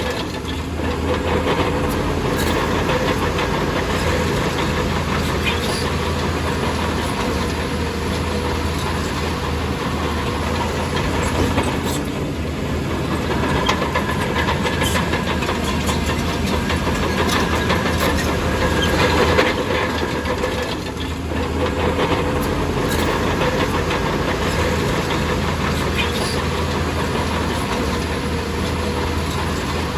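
Heavy diesel engine of a bulldozer running steadily under load, with scattered metallic clanks and clatter. The engine sound briefly dips twice.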